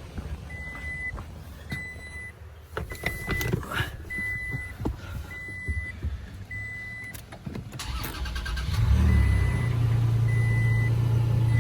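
2020 Toyota Tacoma's dashboard warning chime beeping about once a second amid a few clicks and knocks, then about eight seconds in the engine starts and settles into a steady idle.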